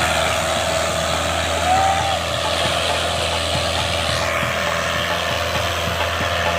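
Fiat 640 tractor's diesel engine running steadily under load while pulling a disc harrow, with a constant low drone.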